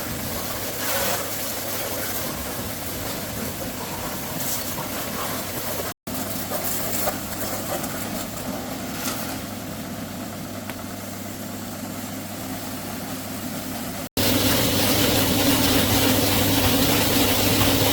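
An engine running steadily, cut into three segments by two abrupt edits; the last segment, from about 14 seconds in, is louder with a stronger steady hum.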